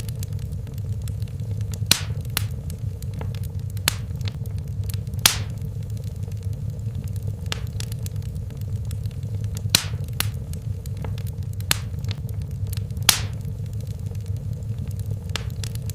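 Wood fire burning in a fireplace: a steady low rumble of flames, with scattered sharp crackles and pops from the burning logs, a handful of them louder than the rest.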